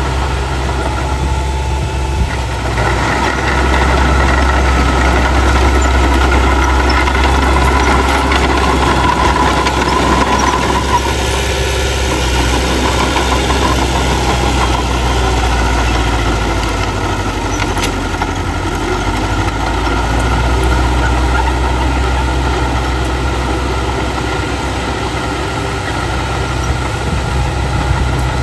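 Heavy diesel engine of earthmoving equipment running continuously, with a steady low drone that grows louder about three seconds in and changes pitch again later as the machine works.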